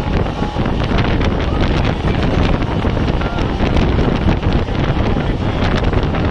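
Wind rushing over the microphone at the open door of a fast-moving passenger train, over the steady rumble of its coaches on the track, with a constant patter of small clicks and rattles from the wheels and rails.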